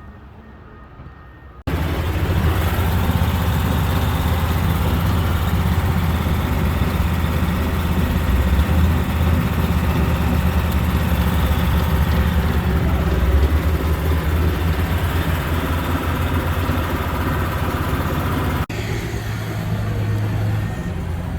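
A heavy truck's diesel engine running steady and loud. It cuts in abruptly about two seconds in, and drops to a quieter run after a sudden break near the end.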